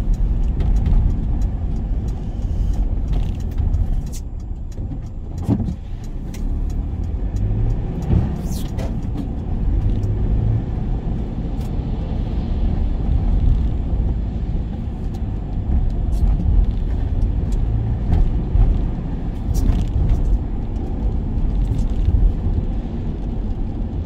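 Work van on the move: a steady low rumble of engine and road noise, with a few brief clicks.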